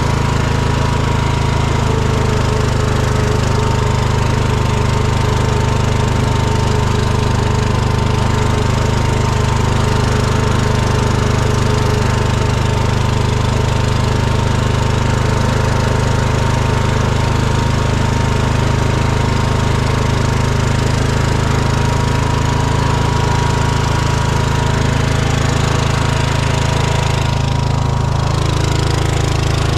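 Small tractor engine running steadily at a constant speed while the machine drives along with a trailer in tow; its tone shifts about two seconds before the end.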